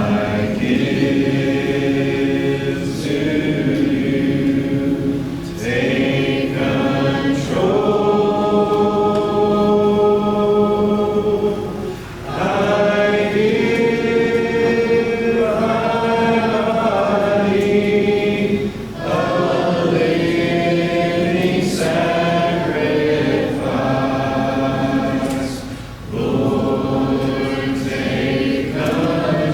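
Congregation singing a hymn a cappella, many voices together in long held phrases with short breaks between them.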